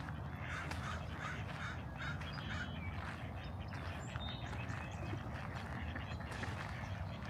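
A run of about six short, harsh bird calls in the first three seconds, over a steady low rumble.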